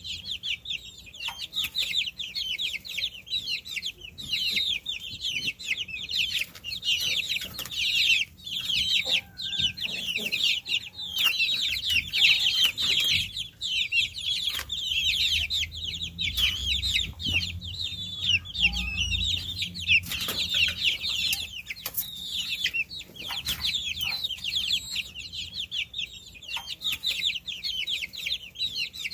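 A brood of baby chicks cheeping continuously, many short high-pitched peeps overlapping.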